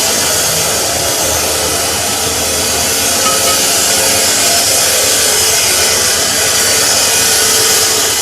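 Steel being machined with a power tool in a metalworking shop: a loud, steady, high hissing grind that starts just before this moment and eases off at the end.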